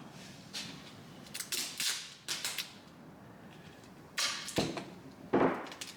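Adhesive tape being pulled off the roll in several short, crackling rips, a few over the first two and a half seconds and two more near the end.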